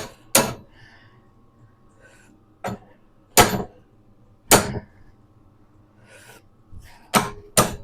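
Hammer blows on a steel part of a minibike's front end: about six sharp, separate strikes spaced irregularly, two of them close together near the end. The part has come loose and is held on only by paint.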